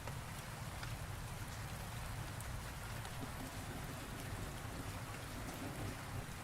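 Steady rain falling in a thunderstorm, an even hiss of drops with a low continuous rumble underneath.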